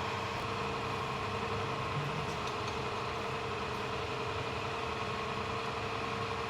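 Tractor diesel engine idling steadily with a constant even hum.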